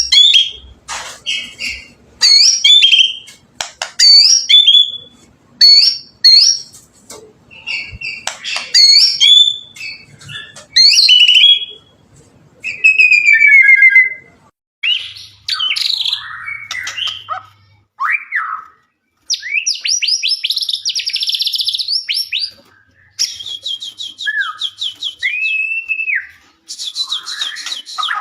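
White-rumped shama (murai batu) singing loudly: a run of short, varied whistled phrases, then in the second half several fast rattling trills.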